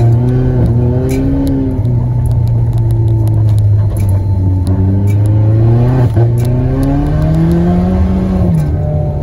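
Audi A3 1.8 turbo's four-cylinder engine heard from inside the cabin, pulling steadily while driving on snow, its pitch rising from about six seconds in and dropping sharply near the end. Scattered sharp clicks sound over it.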